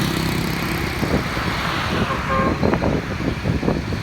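Road traffic: motor vehicle engines and tyre noise. A steady engine hum gives way to rougher, uneven noise after about a second, with a brief pitched tone near the middle.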